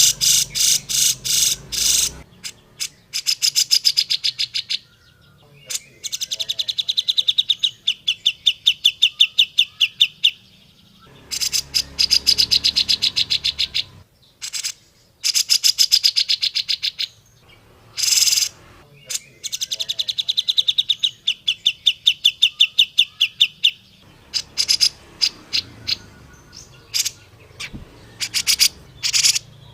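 Grey-cheeked bulbul (cucak jenggot) singing. Its phrases are fast trains of repeated sharp notes, each lasting one to a few seconds, with short pauses between them, over a faint low hum.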